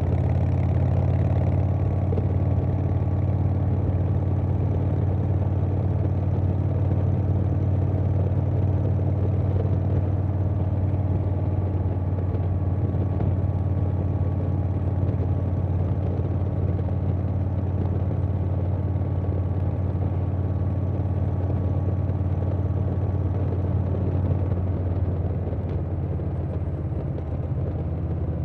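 2020 Harley-Davidson Softail Standard's Milwaukee-Eight V-twin, breathing through a Vance & Hines Big Radius 2-2 exhaust, running at a steady cruise, mixed with wind rush. It eases off slightly near the end.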